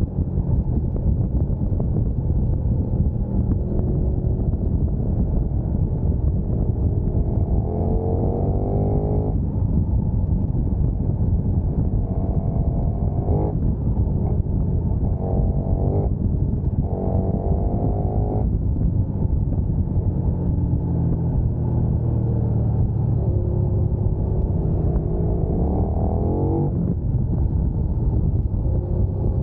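Sport motorcycle engine accelerating hard at speed, its pitch climbing several times and dropping sharply at each upshift. A steady low rumble of wind and road noise runs underneath.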